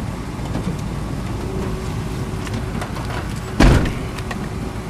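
Wind buffeting the camera microphone, a steady low rumble, with one loud thump a little over three and a half seconds in.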